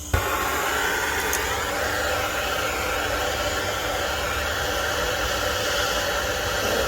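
MAP gas hand torch lighting just after the start, then burning with a steady hiss as it heats a seized rear shock bolt to expand the metal and free it.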